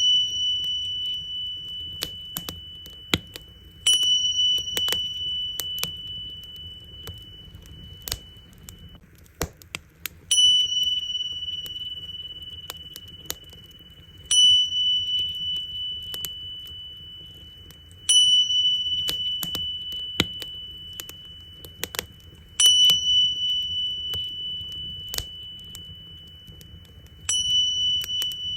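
Tingsha cymbals struck six times, each strike a clear, high ring that slowly fades, over the irregular snapping and crackling of a campfire.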